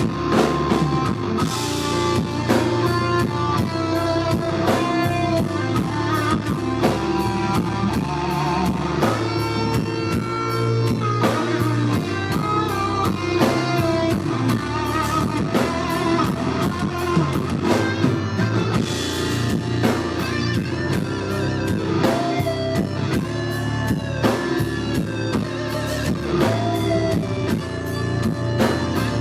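Live blues-rock band playing loud: an electric guitar plays a lead line with bent, wavering notes over a drum kit and bass.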